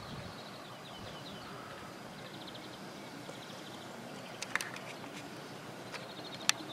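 Quiet outdoor ambience with a small bird giving short, rapid trills several times. A few sharp clicks come a little past halfway, and the loudest one comes near the end.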